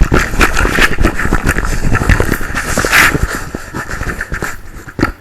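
Water jets of a running dishwasher spraying and splashing inside the wash chamber, a dense, loud spatter of water striking close by. It starts abruptly and eases off near the end.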